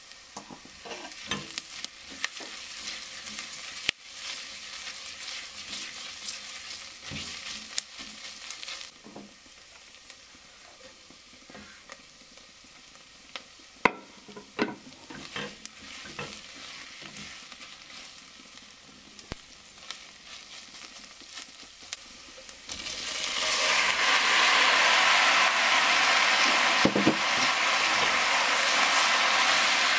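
Diced onions frying in oil in a stainless steel pot with a light sizzle, a spatula scraping and clicking against the pot as they are stirred. About three-quarters of the way in, quartered tomatoes go into the hot pot and a much louder, steady sizzle sets in.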